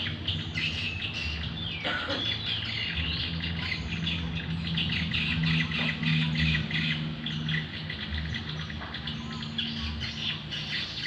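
Caged songbirds chirping: a dense run of quick, short chirps, over a steady low hum.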